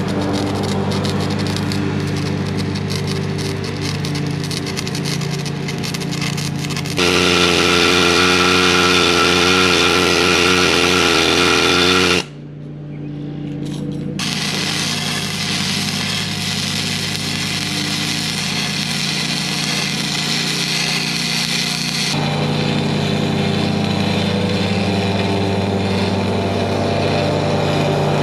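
A small engine running steadily, with a louder, harsher machine noise over it for several seconds near the middle; the sound changes abruptly a few times.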